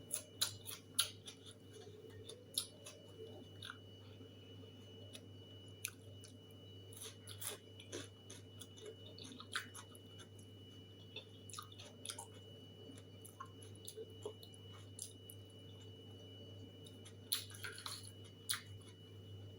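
A person chewing food close to the microphone, with many small irregular clicks and crunches of eating.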